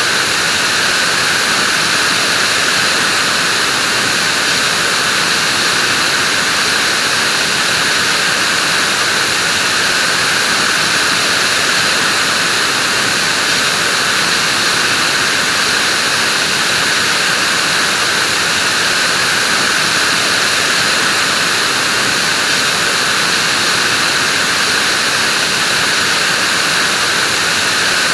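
Vacuum cleaner running steadily: an even, unchanging rushing noise with a strong hissing whine in its upper range.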